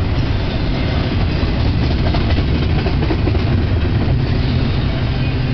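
Double-stack container train's well cars rolling past close by: a steady, loud rumble of steel wheels on rail.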